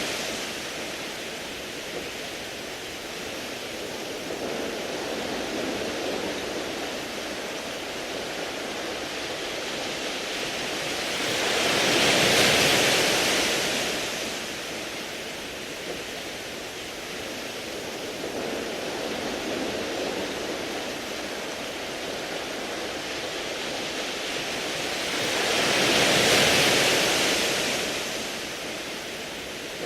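Sea waves washing onto a beach of smooth round pebbles, a steady rushing hiss that swells twice as waves break, about 14 seconds apart.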